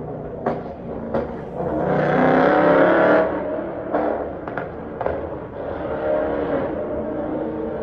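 BMW E92 M3's S65 V8 through catless test pipes, revved once to a peak about three seconds in, with several sharp cracks before and after the rev, then settling to steady running.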